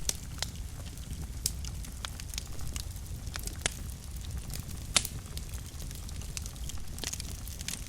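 Wood fire burning in a fireplace: a steady low rumble of the flames with frequent sharp crackles and pops, one louder pop about five seconds in.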